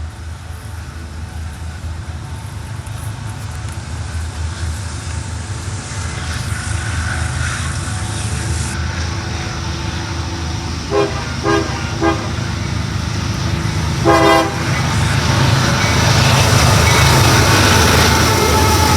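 Diesel locomotive approaching, its low rumble building steadily. Its multi-tone air horn sounds three short blasts about eleven seconds in, then one longer blast a couple of seconds later.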